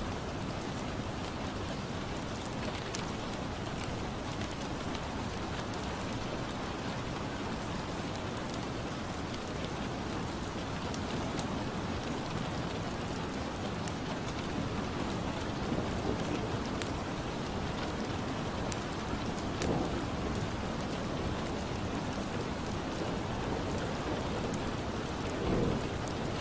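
Steady rain ambience with scattered small crackles and pops from a wood fire.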